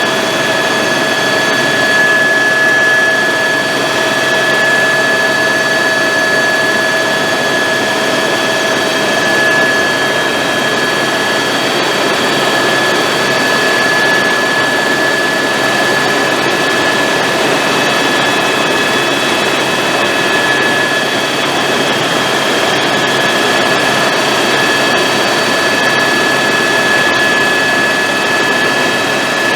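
Helicopter in flight, heard from inside the cabin: a loud, steady turbine whine over a dense rushing noise of engine and rotors.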